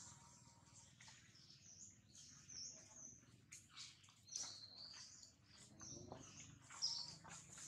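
Faint, high, short bird chirps scattered through near-silent outdoor background, one a little louder near the end.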